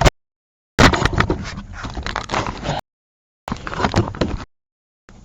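Clicks and scrapes of hand work on metal engine parts as the exhaust plate and its bolts are fitted. The sound cuts out to complete silence three times.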